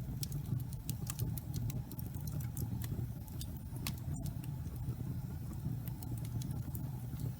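Wood fire crackling in a fireplace: a steady low rumble with sharp pops and snaps scattered over it, thickest in the first few seconds, and a split-second dropout about four seconds in.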